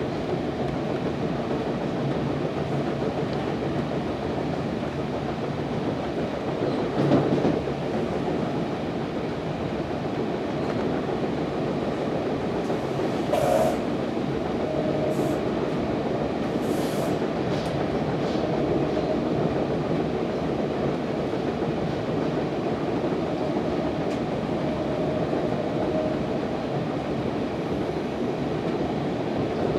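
Interior ride noise of a moving NJ Transit MultiLevel II bilevel coach: a steady rumble of wheels on rail, with a louder knock about seven seconds in and a couple of brief high squeaks around the middle.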